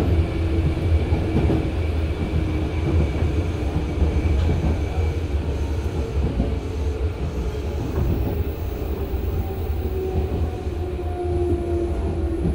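Hanshin 5001-series resistance-controlled commuter train running, heard from inside the passenger car: a steady low rumble of the running gear and wheels on the rails, with a faint steady hum over it.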